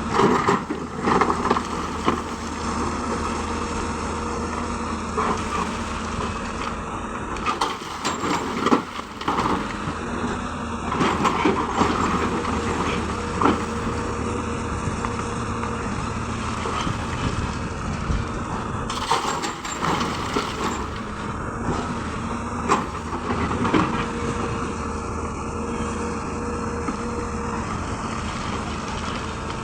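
Hyundai excavator's diesel engine running steadily under hydraulic load, with repeated knocks and clatter of rock as stone is scooped and dropped into a dump truck.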